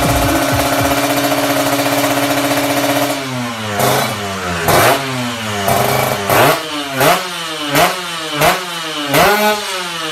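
Two-stroke Kawasaki Ninja 150 engine through an aftermarket racing exhaust, revved. It holds steady at high revs for about three seconds, then drops and is blipped again and again, the pitch rising and falling about three times every two seconds.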